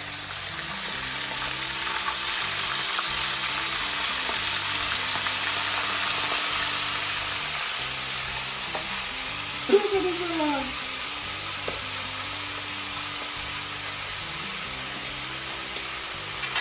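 Stuffed squid frying in hot oil: a steady sizzle that swells about a third of the way in, then settles. About ten seconds in, a brief sharp sound with a falling squeak.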